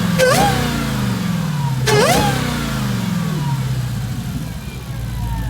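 A car engine revved in two sharp throttle blips about two seconds apart, each quick rise in pitch followed by the revs slowly falling away.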